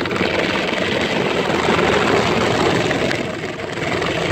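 PDQ Tandem automatic car wash running, its rotating side brush moving toward the car's side, heard from inside the car as a loud, even mechanical noise that dips briefly past three seconds in.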